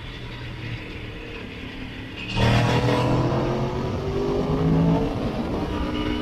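Motorcycle engine at a steady cruise; about two seconds in the throttle snaps open and the engine gets much louder, its pitch climbing for about two and a half seconds before easing off.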